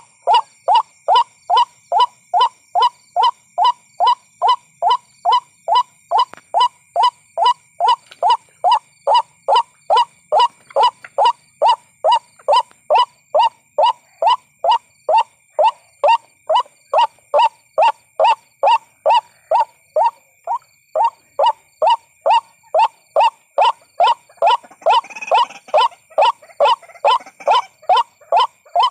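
White-breasted waterhen calling in a fast, steady run of repeated short notes, about two a second.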